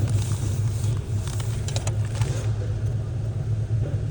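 Car engine running steadily with a low hum, with a few light clicks about a second and a half in.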